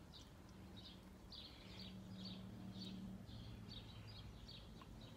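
Faint bird chirps repeating all through, with a faint low hum underneath that is strongest in the middle.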